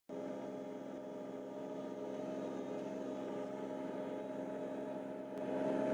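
An engine idling steadily with an even hum, getting slightly louder near the end.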